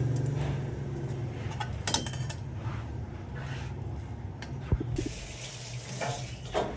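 Water running from a tap into a sink, with a few sharp knocks from kitchenware about two seconds in and again near five seconds.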